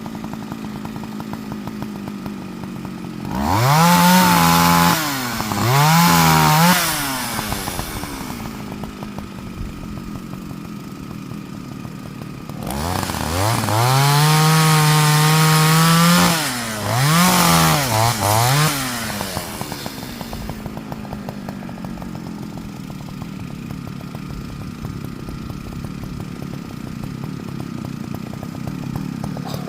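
Partner Farmer two-stroke chainsaw idling and being revved: two runs up to full throttle, the second held for a few seconds and followed by three quick blips, each time dropping back to a steady idle.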